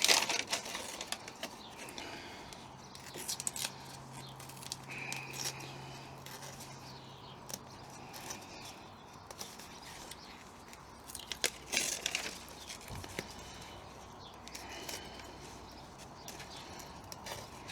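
Paper backing of self-adhesive sound-deadening sheet being handled, peeled and torn, crinkling and rustling in short bursts, with blunt scissors ripping rather than cleanly cutting through it.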